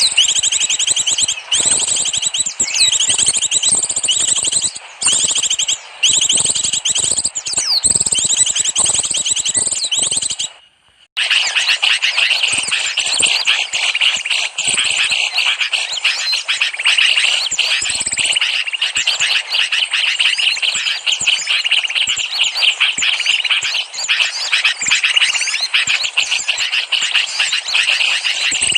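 Dense, overlapping chirping and twittering of many small birds, the kind of recording played as a lure to call small birds in. It breaks off briefly about ten seconds in, then resumes as a steadier, slightly lower-pitched chatter.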